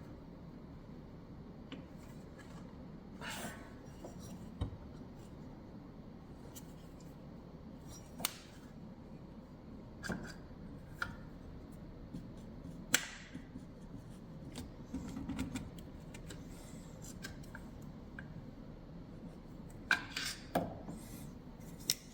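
Hand tools working on the car: scattered sharp metallic clicks, clinks and taps a few seconds apart, over a low steady background hum.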